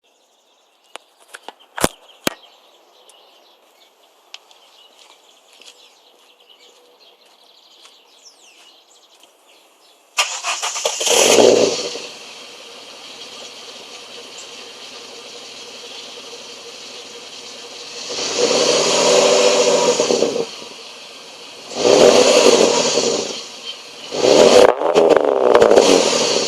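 2001 Ford Falcon AU XR6's straight-six exhaust: faint clicks, then the engine starts about ten seconds in with a brief flare of revs and settles to idle. It is revved up twice, then blipped in quick bursts near the end.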